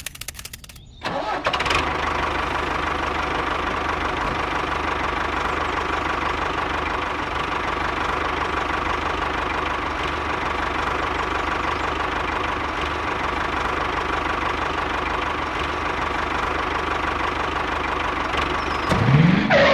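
Engine of a mini DIY construction machine starting about a second in and then running steadily. A brief rising sound comes near the end.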